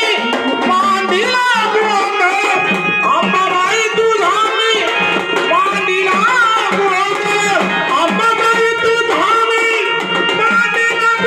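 Marathi folk music: a dholki hand drum playing a steady rhythm under a melodic line that bends in pitch.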